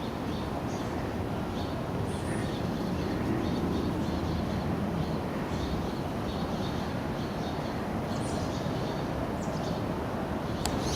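Steady outdoor background noise with faint, short bird chirps repeating throughout.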